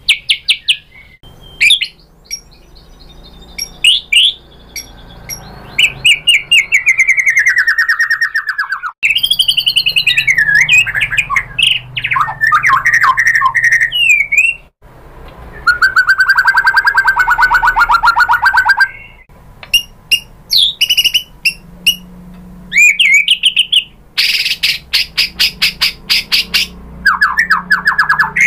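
White-rumped shama singing a loud, varied song of whistled phrases, a long falling whistle, fast rattling trills and sharp chattering notes, one phrase after another with short pauses.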